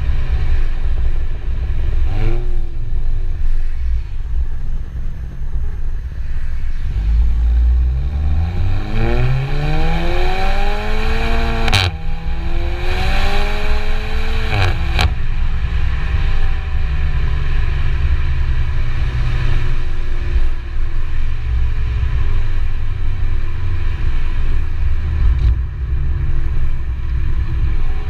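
Seat Leon Cupra 280's turbocharged 2.0-litre four-cylinder and exhaust under a constant low rumble: a short blip of revs about two seconds in, then the revs climb steadily for about five seconds. There is a sharp crack at the top, the revs hold for a few seconds, and after a second crack they fall away slowly.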